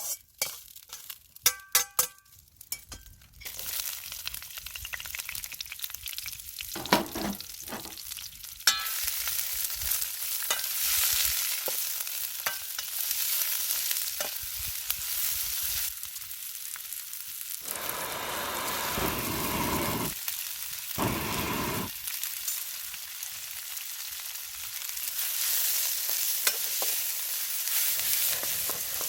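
Stir-fry sizzling in a wok, with sharp metal clinks of a utensil against the wok in the first few seconds. The sizzle turns loud and steady about nine seconds in and swells twice around the 18 and 21 second marks as the food is tossed.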